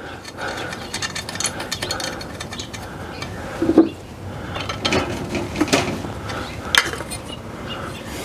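Light metallic clinks, ticks and scrapes of hand tools and small metal parts as the cleaned burner orifice of a Suburban RV furnace is put back in and threaded into place, with a few louder knocks.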